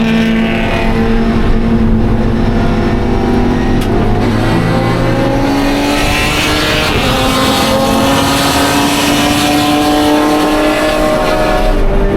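A 2013 Scion FR-S's 2.0-litre flat-four race engine running hard under load. About four seconds in the note breaks for a gear change, then the revs climb slowly and steadily before starting to drop near the end.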